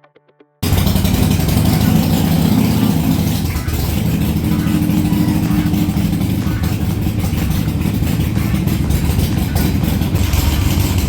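Motorcycle engine running at road speed under a loud rushing noise, cutting in suddenly about half a second in and then holding steady.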